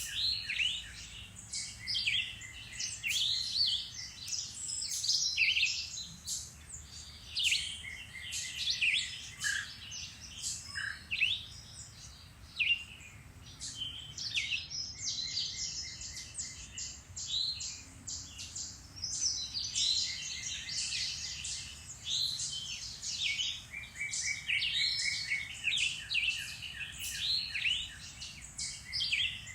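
Several songbirds singing and calling at once in woodland, a busy mix of high chirps and whistles with repeated quick trills.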